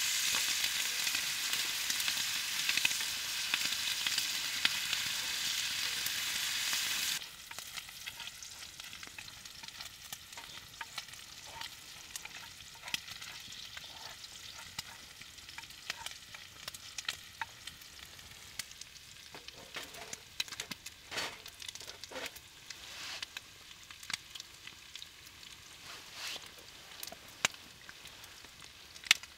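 Food frying in a cast-iron pan, a loud steady sizzle that drops off suddenly about seven seconds in, leaving a quieter scatter of pops and crackles.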